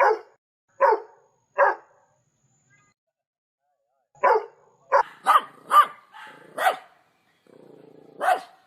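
Dog barking: three barks, a pause of about two seconds, then a quicker run of six or so barks, a short low rasping sound, and one more bark near the end.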